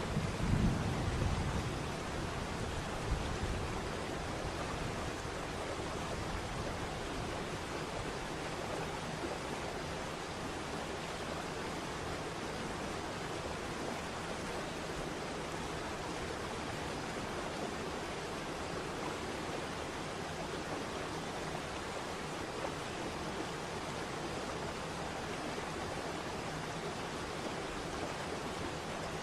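Waterfall, water rushing in a steady, even hiss. A low rumble in the first two seconds dies away into the steady rush.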